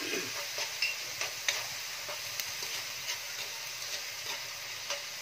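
Spanish sardines and garlic sizzling steadily in olive oil in a wok, stirred with a metal spoon that scrapes and clicks against the pan now and then.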